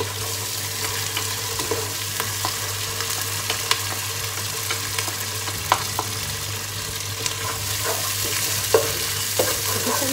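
Onion and curry paste sizzling in a pot, with a wooden spatula scraping and knocking against the pot and bowl as the paste is stirred in. The sizzle is steady, broken by scattered sharp knocks.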